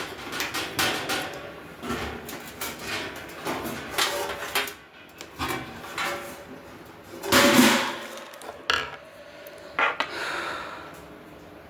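Metal grill parts knocking and clattering as they are handled and fitted together during assembly, with a series of short knocks and a louder clank about seven and a half seconds in.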